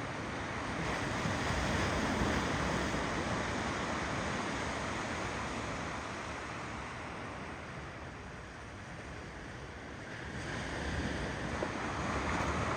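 Ocean surf rolling and washing in: the rush of a wave swells about two seconds in, ebbs away through the middle, and builds again with the next wave near the end.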